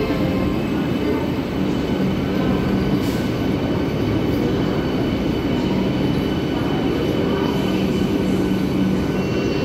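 Vande Bharat Express electric multiple unit rolling past along a station platform: a steady, loud rumble of steel wheels on the rails, with a faint steady hum over it.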